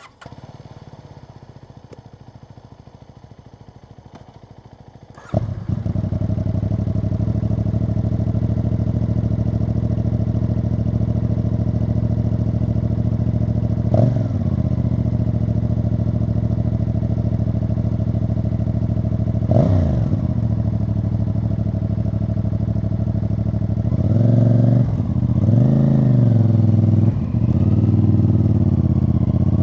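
CFMoto CL-C 450's parallel-twin engine catching about five seconds in and settling into a steady idle through its exhaust. It gets two short throttle blips, then is revved up and down repeatedly near the end.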